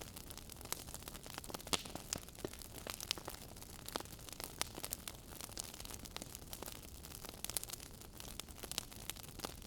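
Wood fire burning in a fireplace, crackling and popping irregularly over a steady low hiss, with one sharper pop about two seconds in.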